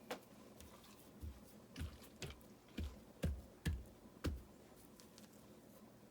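River rocks being set and tapped into wet mortar: about eight soft knocks, each with a dull thud, that stop about four and a half seconds in.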